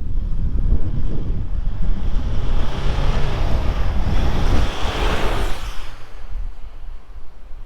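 The Isuzu D-Max's 3.0-litre 4JJ turbo-diesel four-cylinder running under load, heard as a heavy low rumble with strong wind noise on the microphone. A rushing hiss builds about two seconds in and drops away sharply about six seconds in.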